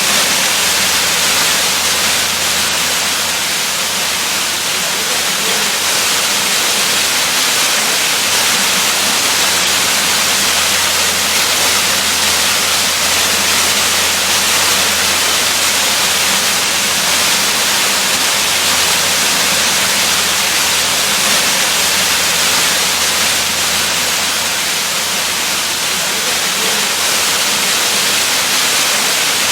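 Waterfall: a steady, loud rush of falling water, even throughout, with the most energy in the hiss.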